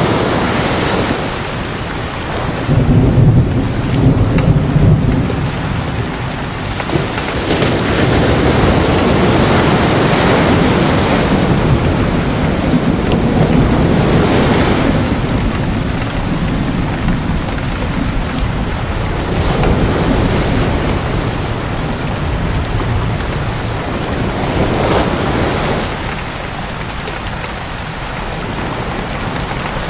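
Thunderstorm: steady heavy rain with rolling thunder that swells and fades several times. The loudest, deepest rumble comes about three to five seconds in.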